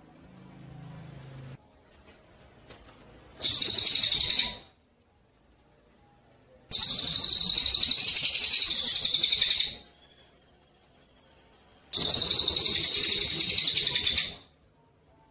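Songbird masteran recording of 'gereja cililin' song: three loud bursts of very fast, high, rattling trill, separated by pauses. A faint, steady high whine sounds between the bursts.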